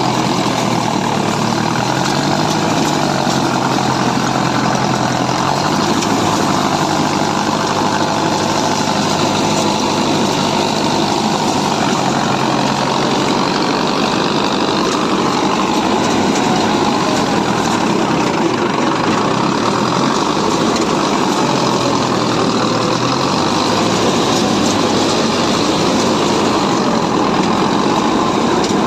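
Harvester's diesel engine running steadily and loud, with a dense mechanical clatter; its pitch drifts slightly up and down.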